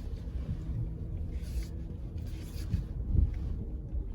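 A car's engine running steadily with a low hum, with rustling movement twice and a couple of low thumps about three seconds in.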